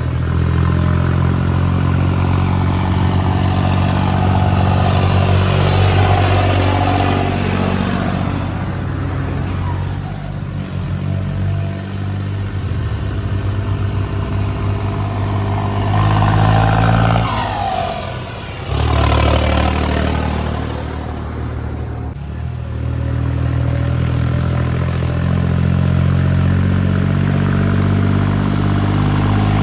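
Heavy engines running, as of tractors hauling soil trolleys, with their pitch and loudness rising and falling as they work, and a brief drop about two-thirds of the way in.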